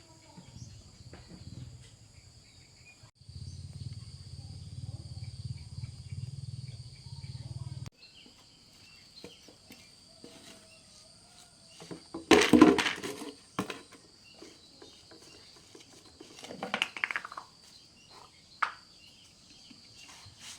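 Insects chirring steadily, with a low hum for a few seconds early on and a loud clatter of knocks a little past the middle, then a smaller clatter and a sharp click.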